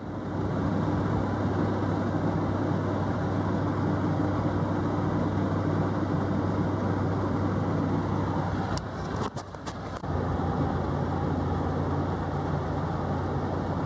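Motor vehicle engine running steadily while driving along a road, with a low hum. About nine seconds in the noise briefly dips, with a few clicks.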